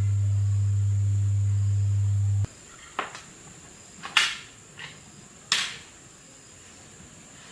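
Loudspeaker giving a steady low hum that cuts off suddenly about two and a half seconds in, followed by a few short sharp clicks and knocks.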